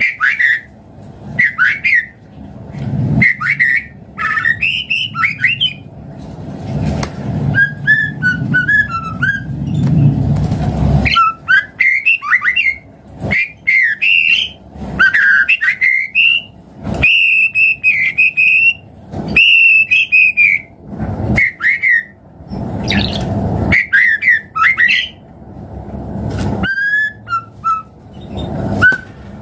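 White-rumped shama singing in a long varied run: loud whistled phrases, held clear notes, fast trills and harsh chattering notes, in quick succession with brief pauses.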